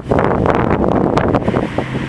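Twin-turbo Nissan 350Z V6 running loud under load as it drives by, with wind buffeting the microphone.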